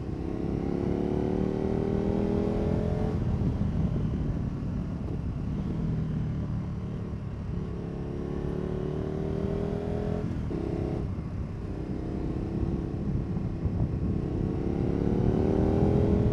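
KTM 1290 Super Adventure S's V-twin engine, fitted with a Wings aftermarket exhaust, pulling hard up through the gears. The engine note climbs, breaks off for a gear change about three seconds in and again about ten seconds in, then climbs again, with wind rush underneath.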